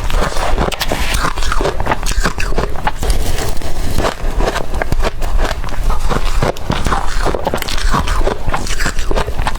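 Blender-crushed ice being bitten and chewed, a dense, irregular run of crisp crunches and crackles.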